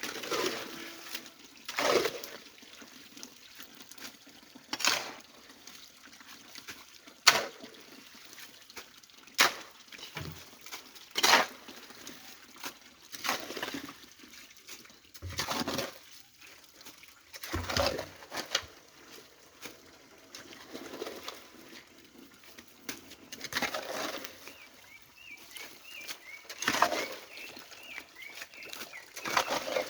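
Repeated splashing, swishing strokes in shallow stream water, about one every two seconds, as debris is cleared from the channel so the water can flow.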